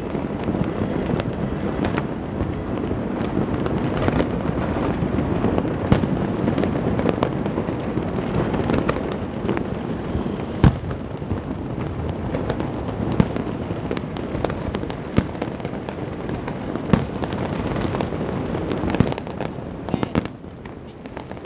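Many fireworks and firecrackers going off at once: a continuous crackling rumble with sharp bangs scattered throughout, the loudest bang about halfway through.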